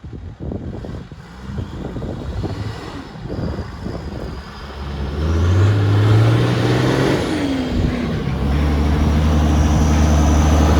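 A 4x4's engine working under load off-road: it builds from about four seconds in, dips in pitch around seven seconds, then holds a loud steady note.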